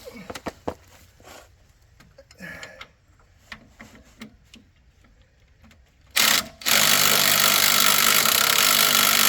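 A few light clicks and clinks of tools being handled. About six seconds in, a Ryobi cordless impact wrench gives a short burst, then runs steadily on a strut nut, loosening it.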